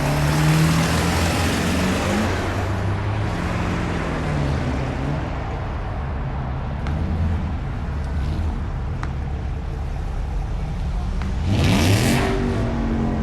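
Road traffic: car engines running in slow, congested traffic, with a vehicle passing close and accelerating about twelve seconds in.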